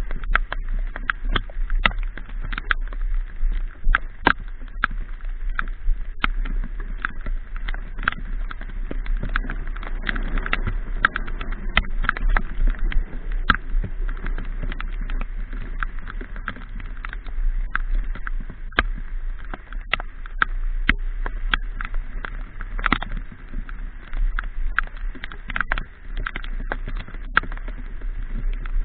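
Motorbike riding in the rain: irregular sharp taps of raindrops hitting the camera, over a steady low rumble of wind and engine.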